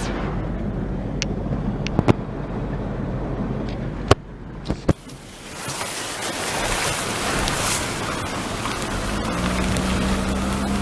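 Steady rushing noise of heavy rain and floodwater, dipping briefly and then rising again, with a few sharp clicks. A low steady hum comes in near the end.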